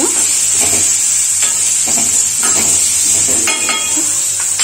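Sliced onions sizzling in hot oil in a metal kadai, stirred with a steel spoon that scrapes against the pan in short repeated strokes over a steady frying hiss. The onions are being sautéed in the tempering of mustard seeds, dried red chillies and curry leaves.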